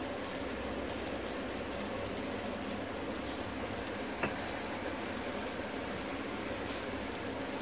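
Laccha paratha frying in ghee on a hot flat pan: a steady, soft sizzle, with a single light tap about four seconds in.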